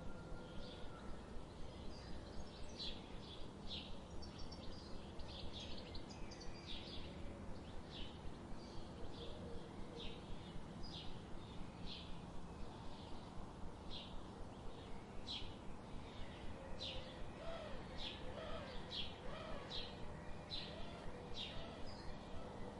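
Forest birds calling: a steady run of short, high chirps, about one or two a second, over a constant low background rumble. A few lower whistled calls join in near the end.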